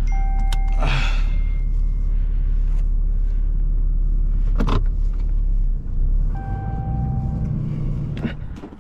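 Low, steady rumble of a vehicle driving, heard from inside the cab, with a single knock about halfway; the rumble changes about two-thirds of the way through and falls away near the end as the vehicle comes to a stop.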